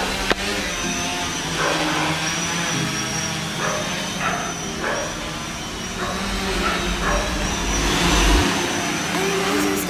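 Small electric motors with propellers running steadily, with a thin high whine over a lower whirring.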